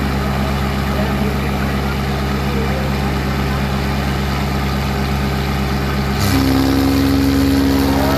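Diesel tractor engine running steadily, then revving up to a higher, louder pitch about six seconds in.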